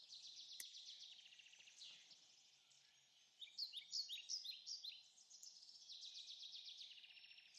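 Faint songbirds singing: high, quickly repeated chirping phrases and trills, with a short lull about three seconds in before the song resumes.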